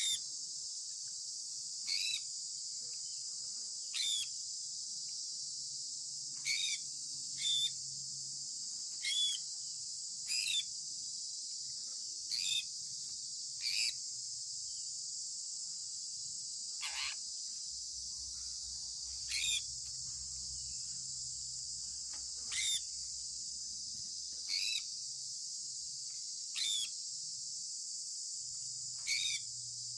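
Sun conure giving short single chirps that fall in pitch, about one every two seconds. The chirp around the middle is longer and sweeps lower. A steady high-pitched hiss runs underneath.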